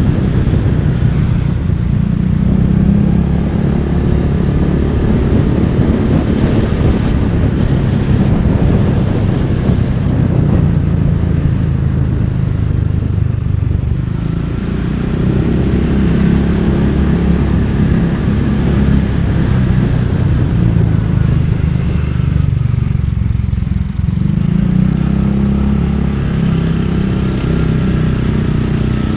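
Motorcycle engine running steadily while riding; its note eases off briefly about three quarters of the way through and then picks up again.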